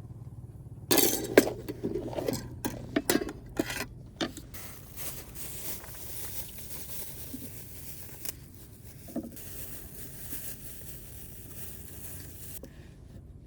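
Dishes and cookware clinking and clattering as they are handled, a quick run of knocks for a few seconds, then a steady hiss that cuts off suddenly near the end.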